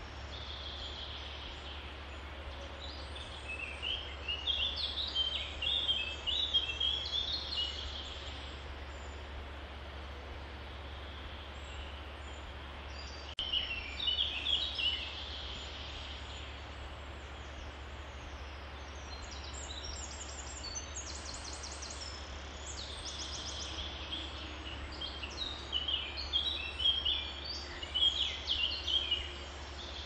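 Birds chirping and trilling in several bursts of quick high calls, the busiest near the start and toward the end, over a steady low hum.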